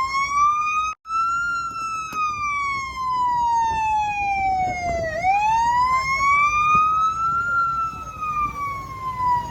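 Police siren on a slow wail, its pitch rising and falling in long sweeps, about one full cycle every six seconds. The sound cuts out for an instant about a second in.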